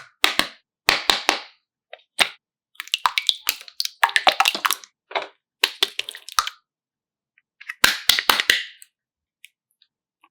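Slime being squeezed and pressed by hand, giving off bursts of sharp crackling pops as air pockets burst, in about seven short clusters.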